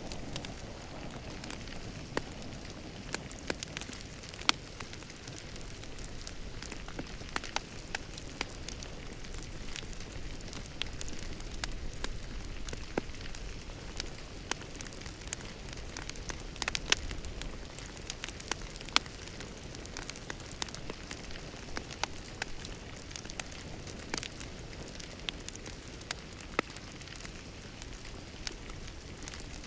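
Wood fire burning in a fireplace: a steady low rush with irregular sharp crackles and pops, a few of them louder than the rest.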